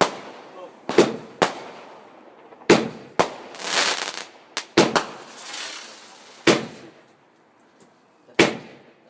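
Fireworks going off: about nine sharp, loud bangs at irregular spacing, each with a rolling echo. In the middle, two stretches of hissing crackle.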